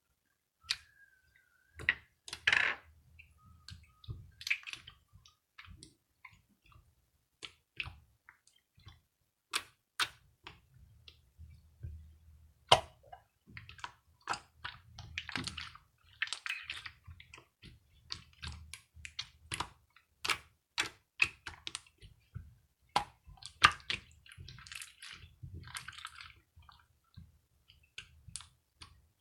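Slime being squeezed and worked by hand, giving irregular sticky clicks, pops and short squishy crackles.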